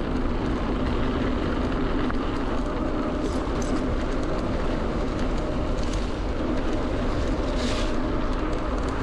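Electric mountain bike riding along, its Bafang BBSHD mid-drive motor giving a steady whine over a constant low rumble of tyres and wind.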